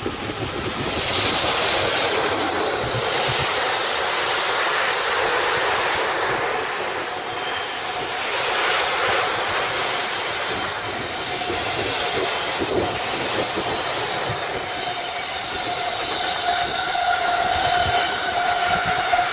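A train running past on the rails: a loud, steady rush of wheel and rail noise, with a steady whine coming in near the end.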